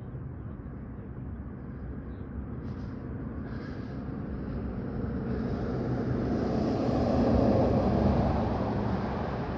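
A motor vehicle passing close by, its engine and tyre noise swelling to a peak about three-quarters of the way through, then easing off.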